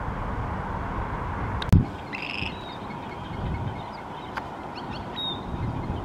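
Outdoor rumble of wind on the microphone, broken by one sharp loud click nearly two seconds in. Right after it comes a short harsh bird call, then a few brief high chirps.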